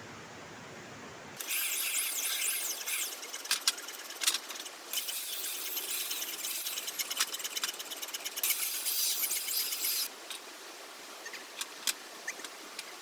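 Angle grinder abrading stone in bursts: a loud, high, hissing grind with scattered sharp clicks, easing off for the last few seconds.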